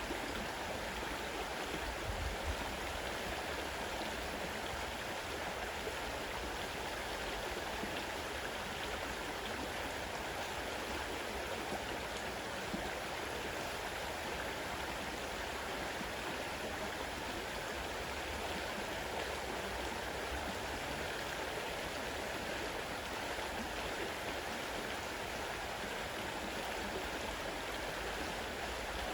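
Fast-running river: a steady rush of flowing water.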